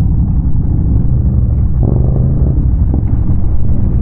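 ATV engine running with a heavy low rumble, picking up briefly about halfway through.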